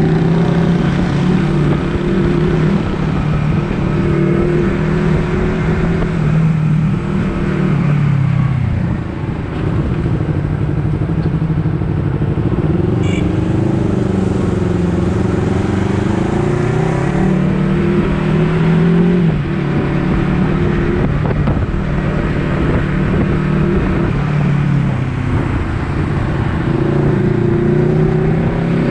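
Honda CBR250RR parallel-twin engine heard from the rider's position while riding, its pitch climbing and dropping repeatedly as it revs up through the gears and backs off, with a brief dip in level about nine seconds in.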